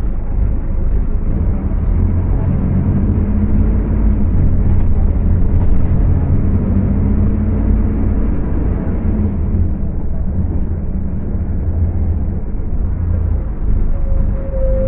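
Scania K250UB city bus engine, a five-cylinder diesel, running under load at high revs with a deep rumble. Its note rises twice as it pulls.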